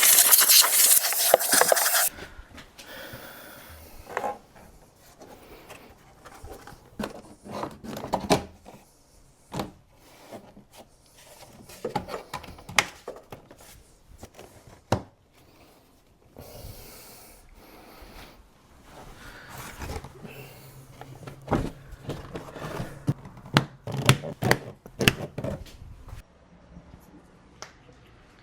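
A loud hiss for about the first two seconds, then scattered clicks, knocks and rubbing as plastic engine trim covers and the air filter housing are handled and clipped back into place.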